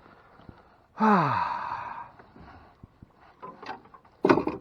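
A man's long sigh, its pitch falling over about a second, about a second in. Near the end comes a short, loud, noisy burst.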